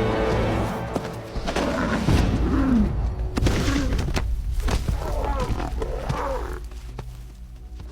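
Lionesses growling in a series of short calls over background music, during their attack on a giraffe.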